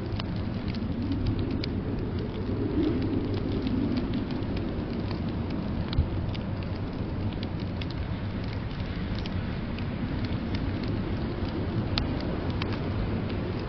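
Wood fire crackling in a fireplace: scattered sharp pops and ticks over a steady low rumbling noise.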